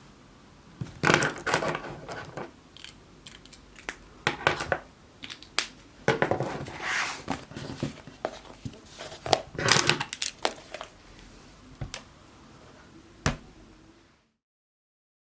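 Crinkly material being handled by hand, with irregular rustling and crinkling and a few sharp clicks; the sound stops abruptly near the end.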